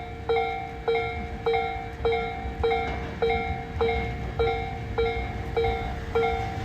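Railway level-crossing warning bell ringing in identical metallic dings, a little under two a second, signalling an approaching train.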